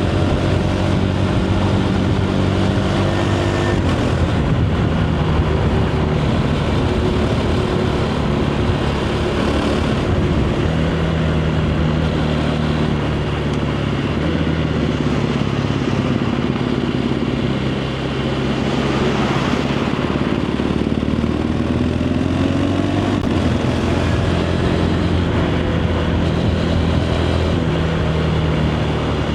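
KTM 390 Adventure's single-cylinder engine running through its stock exhaust while riding at road speed. The engine note shifts in steps as it changes gear, dips briefly about two-thirds of the way in, then climbs as the revs rise again.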